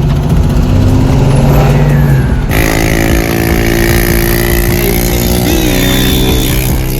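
Car engines running loudly as vehicles cruise past. About two and a half seconds in the sound changes abruptly to a steadier, fuller engine note.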